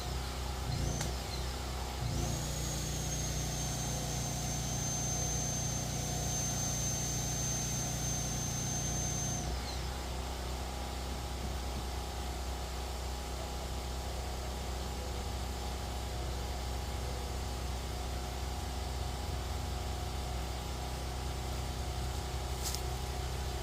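An engine running steadily. A thin high whine rides over it for several seconds and stops about nine and a half seconds in, when the engine's tone shifts.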